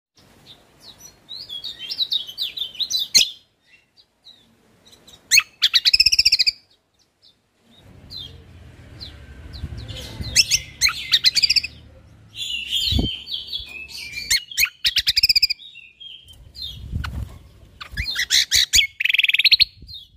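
A cucak kombo (kecial kombok) songbird singing bursts of fast, varied chirping phrases and rapid trills, with short pauses between them. This is the competition-style song of fill-ins and 'shots' used as a training recording for other birds.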